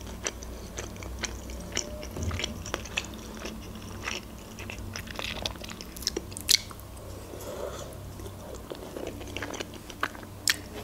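Close-up eating sounds: chewing and wet mouth clicks from a forkful of creamy salad, with scattered sharp clicks, the loudest about six and a half seconds in.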